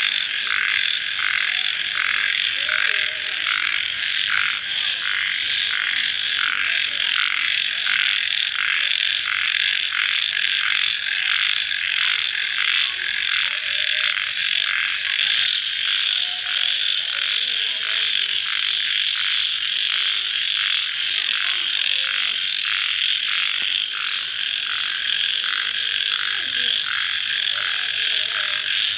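Dense night chorus of crickets chirping in steady pulses, about two a second, with a faint high steady trill above.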